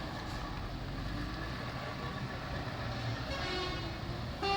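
Truck engines running steadily in a passing convoy, with a short, fainter horn blast a little over three seconds in.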